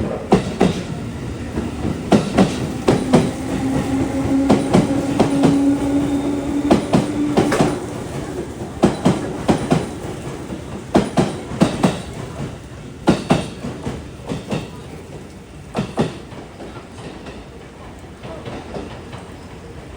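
Commuter train running on rails, its wheels clicking over rail joints in quick clusters, with a steady low hum that rises slightly for a few seconds early on. The clicks and running noise grow quieter after about three quarters of the way through.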